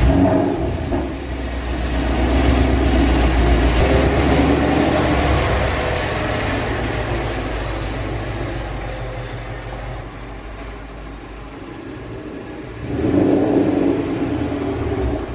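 Ford Mustang GT's 4.6-litre V8 running as the car pulls out and away. Its rumble is loudest in the first few seconds, fades as it moves off, then swells again about thirteen seconds in.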